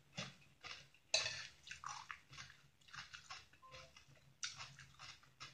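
A person chewing a crunchy shredded chayote salad close to the microphone: faint crisp crunches about two a second, with louder bites about a second in and again near the end.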